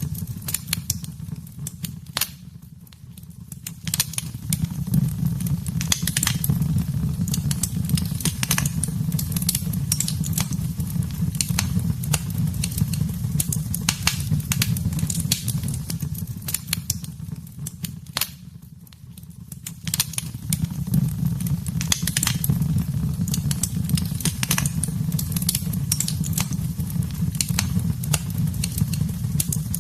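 Wood fire burning in a fireplace: irregular sharp crackles and pops over a low, steady rumble of the flames. The sound dips quieter briefly twice, about three seconds in and again around the middle.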